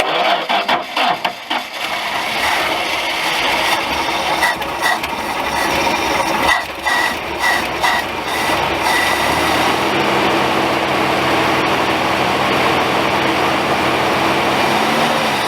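Classic truck engine being cranked over by its starter for about fifteen seconds without catching, then cut off abruptly. It is cranking dry: no fuel is being drawn up to the carburetor.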